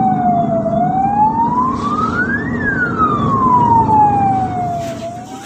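Ambulance siren wailing in slow sweeps. The pitch falls through the start, rises for about two seconds to a peak, then falls slowly for about two and a half seconds before turning upward again near the end, all over a steady low rumble.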